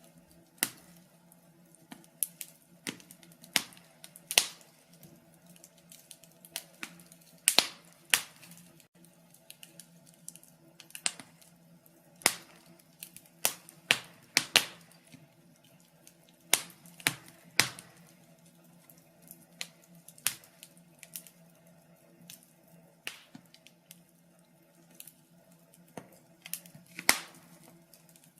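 Fire in a fireplace crackling, with irregular sharp pops and snaps, roughly one or two a second, over a faint steady hum.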